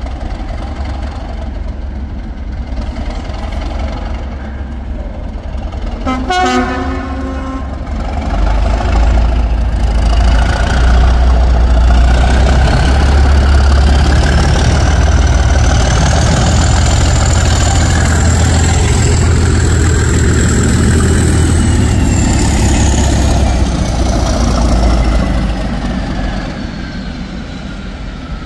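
A train gives one short horn blast, then runs past loudly with a heavy low rumble. A high whine rides over it and falls in pitch near the end as the rumble eases.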